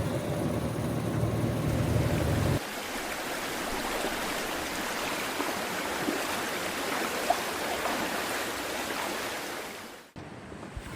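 Steady rushing noise with no distinct events. A deeper rumble underneath cuts off about two and a half seconds in, and the rushing fades out near the end.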